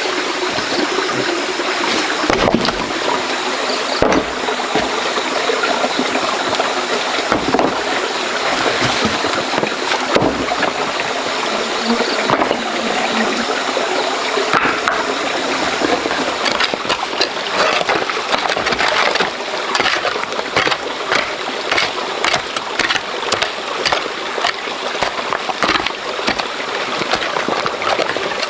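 Water running in a stream after heavy rain, a steady rushing, with many short clicks and knocks scattered through it.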